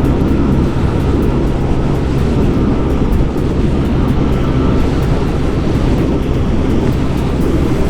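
Yamaha Aerox scooter's single-cylinder engine running steadily at cruising speed, under heavy wind and road noise.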